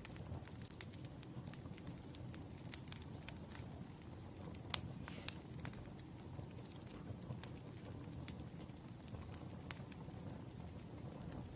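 Burning firewood crackling: irregular sharp pops and snaps over a low, steady rumble of the flames, with the loudest pop about halfway through.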